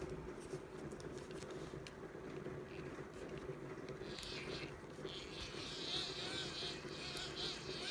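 Hand crank of a Sony ICF-B88 radio's built-in dynamo being turned, a steady buzzing whir that picks up a higher, pulsing whir about four seconds in.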